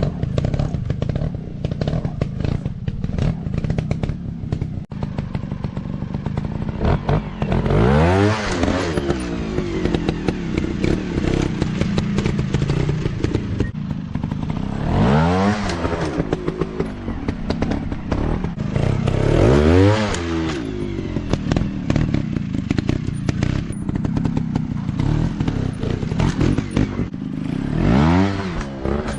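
Dirt bike engine running and revving, its pitch climbing and dropping back four times, with clattering and knocking between the revs.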